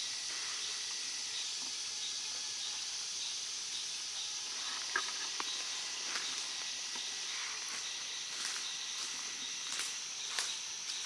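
Steady, high-pitched chorus of swamp insects. Several faint clicks or snaps come in from about halfway through.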